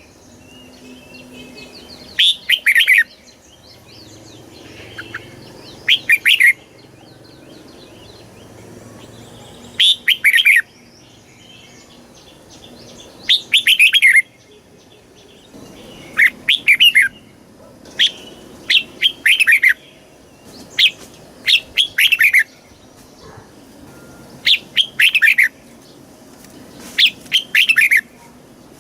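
Red-whiskered bulbul singing: short, bright phrases of quick falling notes, repeated every two to four seconds, with faint chirping between.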